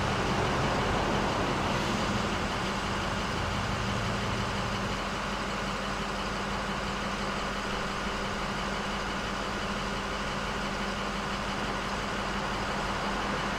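A large vehicle's engine idling steadily, a constant low rumble with a steady hum over it. It starts abruptly.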